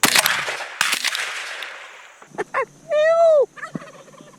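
Two shotgun shots about a second apart, each echoing away, as hunters fire at passing doves; a few seconds later a person lets out a loud, rising-then-falling shout.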